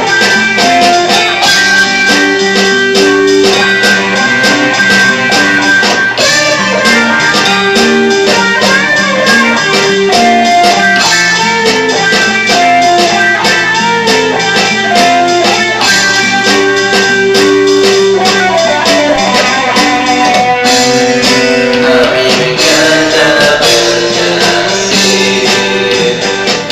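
Rock band music with guitars over a steady drum beat, an instrumental stretch with sustained melodic lines.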